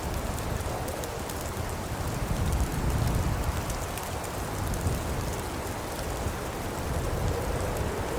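Birchwood fire burning in a fireplace: a steady low rumble and hiss with many small crackles and pops, the rumble swelling briefly about two and a half seconds in.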